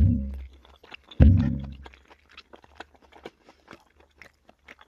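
Close-miked chewing of a mouthful of fried eggs and vegetables, with many small wet mouth clicks. Two short low sounds come at the start and about a second in, louder than the chewing.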